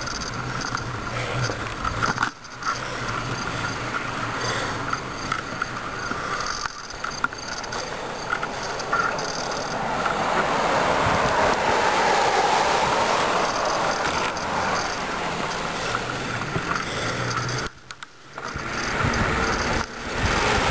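Steady rushing noise of a bicycle being ridden on a road, mostly wind on the microphone with tyre noise. It grows a little louder about halfway through and briefly drops out twice.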